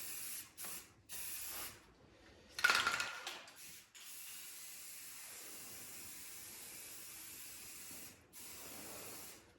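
Aerosol spray paint can spraying: a few short bursts, one louder burst about two and a half seconds in, then a long steady spray of about four seconds and a shorter one near the end.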